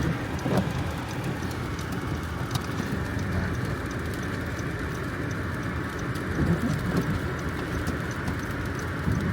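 Car driving on a snow-covered road, heard from inside the cabin: a steady rumble of engine and tyres on snow and slush, with faint scattered ticks.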